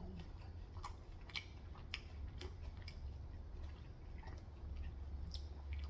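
Close-up chewing and biting of crunchy Korean fried chicken: scattered sharp crunchy clicks, with a steady low hum underneath.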